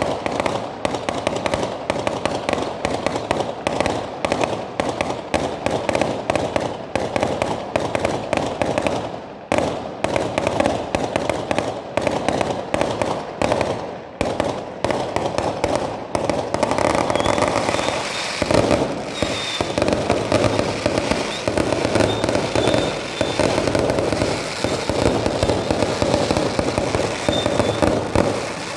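Fireworks going off in a rapid, continuous barrage of bangs and crackles with hardly a gap, growing into a thicker, more even crackling from a little past halfway.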